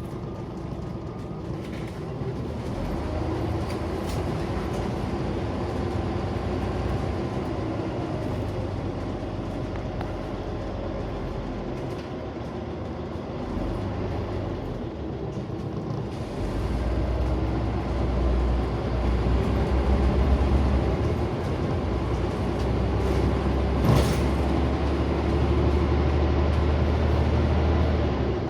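Scania CN94UB Omnicity single-decker bus heard from inside the cabin while driving: steady engine and road noise. The engine's low drone gets louder from a little past halfway, as if pulling harder, and there is one sharp click near the end.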